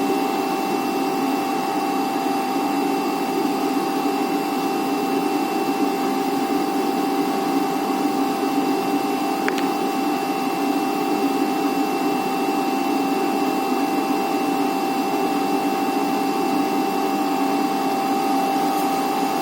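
Flatbed cutting plotter running, its oscillating knife cutting expanded-graphite gasket sheet: a steady mechanical hum with a few constant tones over it.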